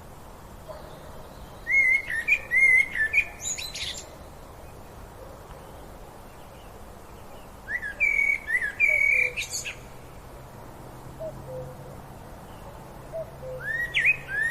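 Songbird singing in short bursts of quick chirps and gliding notes, three phrases a few seconds apart, over a steady outdoor background hiss.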